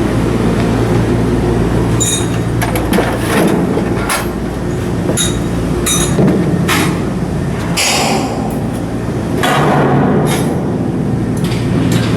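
Shipbuilding work noise: a steady machinery hum with irregular metal clanks and short hissing bursts starting about two seconds in.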